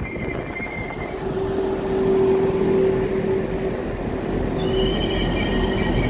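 Class 197 diesel multiple unit rolling slowly into the platform under braking: a steady whine through the middle, then high-pitched wheel and brake squeal starting about four and a half seconds in, over a low rumble.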